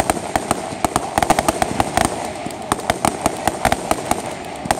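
Fireworks display: aerial shells bursting in a rapid, irregular string of pops and bangs, bunched in clusters.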